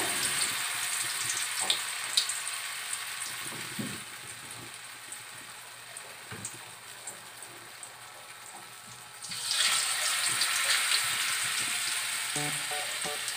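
Blocks of extra firm tofu frying in hot oil in a wok, sizzling. The sizzle dies down midway, then flares up sharply again about nine seconds in as a second block goes into the oil.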